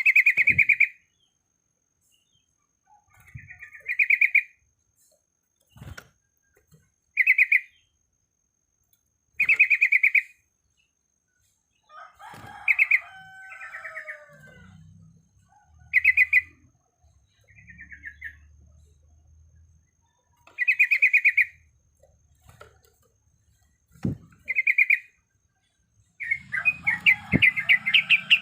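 Yellow-vented bulbul calling: short, bubbling trilled phrases repeated every two to three seconds, a more tangled phrase about halfway through, and a longer rapid run of notes near the end.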